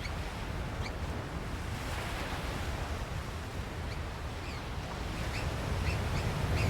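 Steady wash of surf, with scattered faint, short, high peeps from African black oystercatchers.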